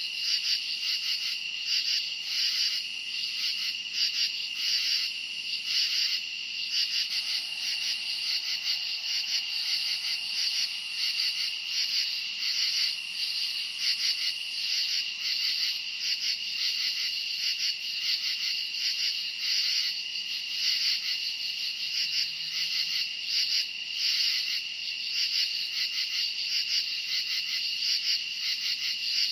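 Crickets chirping in a steady night chorus: a constant high trill at one pitch, with quick regular chirps pulsing just above it.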